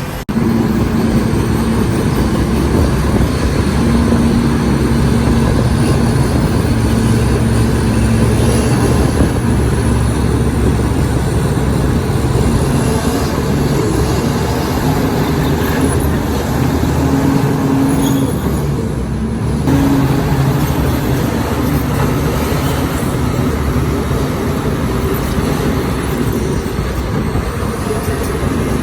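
Heavy diesel engines of earthmoving machinery running steadily, the engine note shifting up and down a little as the machines work.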